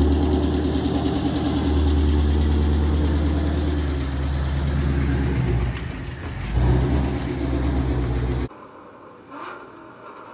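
Ford Mustang Shelby GT350's V8 engine running loudly, with a brief dip about six seconds in; the engine sound cuts off abruptly about eight and a half seconds in, leaving faint background noise.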